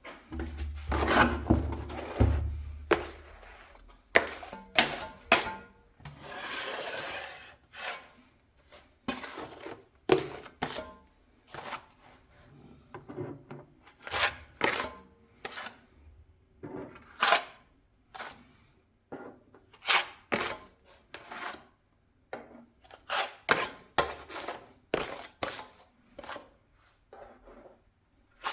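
Repeated short scraping strokes of a hand tool working the surface of a window reveal, each stroke under a second, coming in irregular runs with brief pauses. A low rumbling bump comes in the first two seconds.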